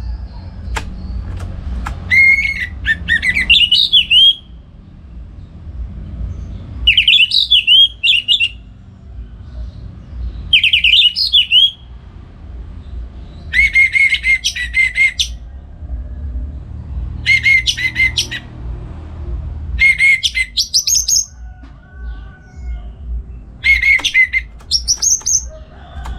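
Orange-headed thrush (anis merah) in full, open song: about seven varied, rapidly warbled whistled phrases of a second or two each, separated by short pauses, over a steady low rumble.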